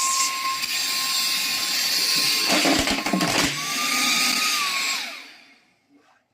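Handheld mini vacuum cleaner's small electric motor running in blower mode: a steady high whine over a rush of air. About two and a half seconds in the airflow is briefly disturbed with a rough low rumble and the whine steps up slightly; about five seconds in it is switched off and the whine winds down and fades out.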